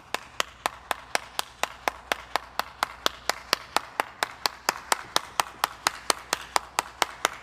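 Sharp, evenly spaced clicks, about four a second, keeping a steady machine-like rhythm.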